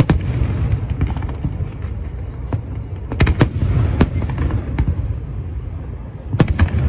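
Fireworks display: a continuous low rumble of shell bursts with sharp bangs about a second in, a pair near the middle, and a cluster near the end.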